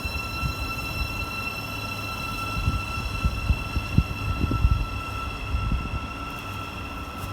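A train at a railway station: a low rumble with irregular heavy thumps, loudest about three to five seconds in, under a steady high-pitched whine.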